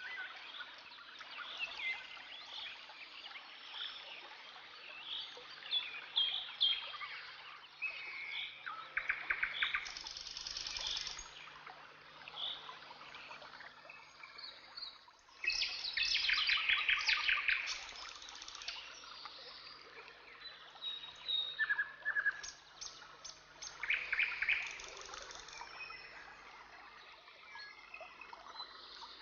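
Chirping calls and buzzy pulsed trills, birdlike, coming thick and fast with a dense burst about halfway through, over a faint steady low hum.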